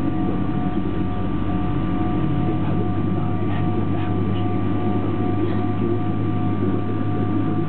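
Boeing 777-200LR's GE90 turbofan engine running at a steady pitch, heard from inside the cabin: a low rumble with two thin, steady whining tones.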